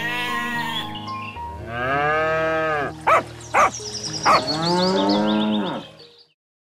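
Cows mooing three times, long calls that rise and then fall in pitch, over faint background music. Two short sharp sounds come between the second and third moo.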